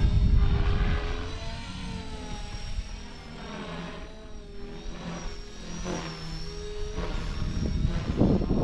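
Blade 330X electric RC helicopter in flight: its motor and rotor whine, the pitch drifting up and down as it manoeuvres. Wind buffets the microphone with a low rumble, strongest at the start.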